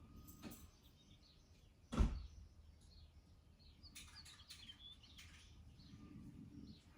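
A single sharp thump about two seconds in, with faint bird chirps a couple of seconds later over quiet background noise.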